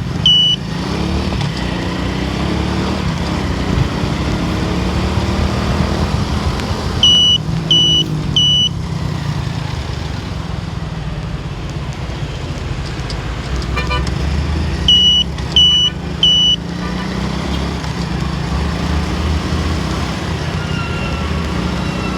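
Steady road and engine rumble of a car being driven, with the engine pitch rising and falling a few times. Short high-pitched beeps come in threes, twice: about a third of the way in and again about two-thirds in, and they are the loudest thing heard.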